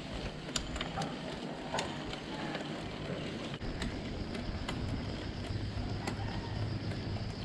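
Mountain bike in motion on a rough road: tyre noise with scattered sharp clicks and rattles from the bike. A steady low drone joins about halfway through.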